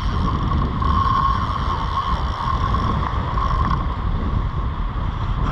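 Wind buffeting the microphone, a steady rumbling noise with a faint, even hiss above it.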